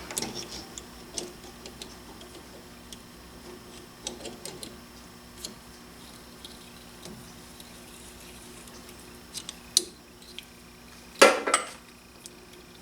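Scattered faint metallic clicks and ticks from a cheap hand tap being turned into a blind hole in steel, the chips having nowhere to go, over a faint steady hum, with a louder short ringing sound about eleven seconds in.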